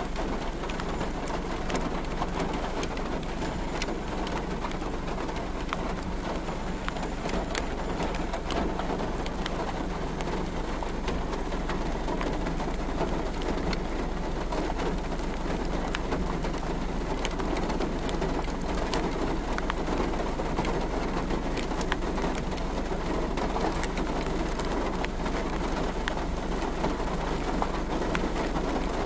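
Steady rain falling, scattered with many sharp drop ticks.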